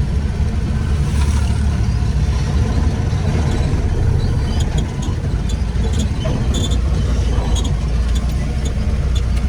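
Old Nissan truck's engine running steadily: a continuous low rumble with scattered light clicks and rattles.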